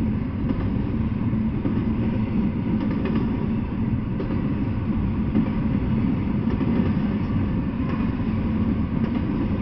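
Double-stack intermodal freight train rolling past: a steady low rumble of its well cars' steel wheels on the rails, with a few faint clicks.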